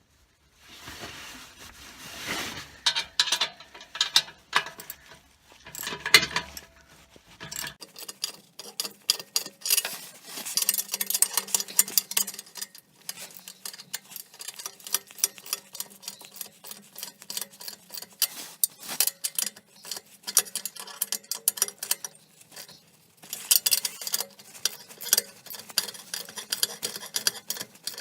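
Rapid ratchet clicking and metal tools clinking as the exhaust flange bolts are tightened back up, in fast runs of clicks with short pauses between.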